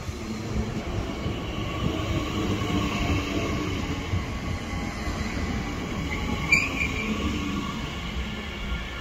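Elizabeth line Class 345 electric train moving through the station with a steady rumble and motor tones, and a short high wheel squeal about six and a half seconds in.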